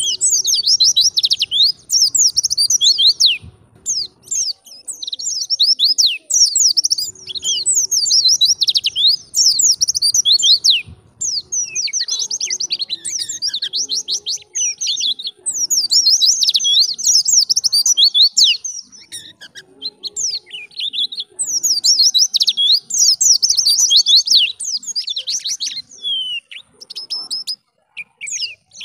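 White-eye (pleci) singing a fast, loud, chattering wild-type song of rapid high down-slurred notes. The song comes in bursts of a few seconds, broken by short pauses.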